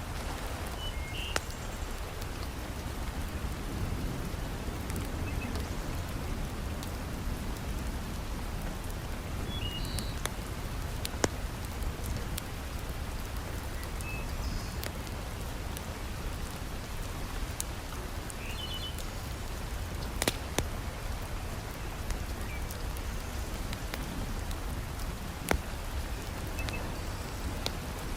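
Steady heavy rain with a few sharp pops and crackles from a wood fire in a fireplace.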